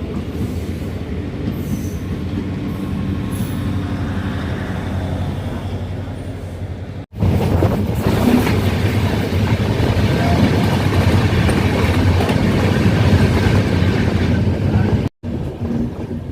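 Express passenger train running on the rails, a steady rumble of wheels and coach. About seven seconds in it cuts abruptly to a louder stretch, and it breaks off again briefly near the end.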